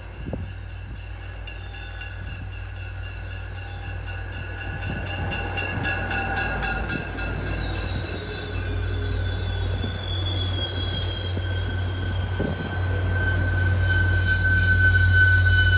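MBTA commuter rail passenger train passing, its coaches rolling by with a steady low rumble and thin high wheel squeal, growing steadily louder.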